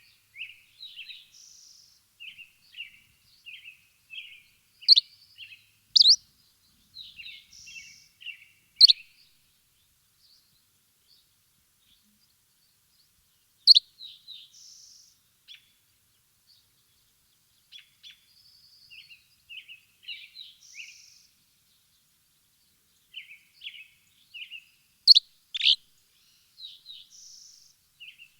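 Small birds chirping in clusters of short, quick notes, with a few louder, sharp calls, the loudest about a quarter of the way in and again near the end, and short pauses between bouts.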